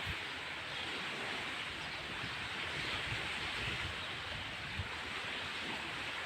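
Steady rushing outdoor noise, with wind buffeting the microphone in low, uneven rumbles.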